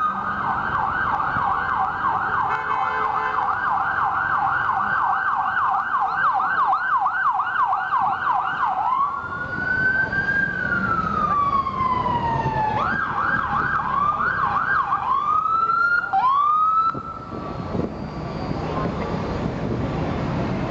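Police car siren going past in fast yelp mode, about three up-and-down sweeps a second. It switches to a slow falling wail, goes back to yelp, and ends with a few short rising whoops before cutting off near the end, leaving traffic noise.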